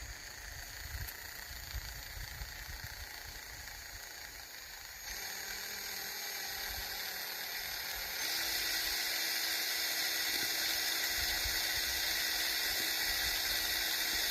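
Power drill running on low speed in reverse, its motor whining steadily as it twists four wire strands held in its chuck. The whine gets louder in two steps, about five seconds in and again about eight seconds in.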